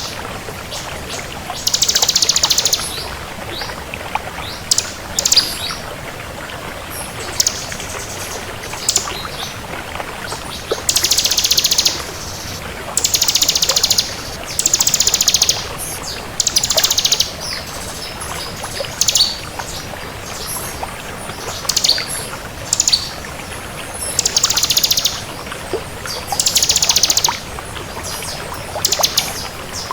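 A bar-winged prinia (ciblek kristal) singing: rapid, high-pitched trilled phrases about a second long, repeated every couple of seconds, with short sharp chips between them.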